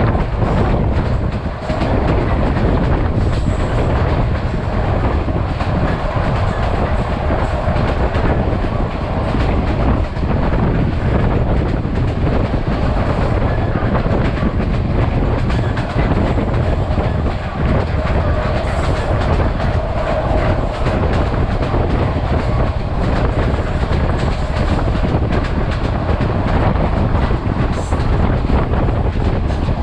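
Passenger train running along the track, with a steady rumble and the wheels clacking over the rail joints.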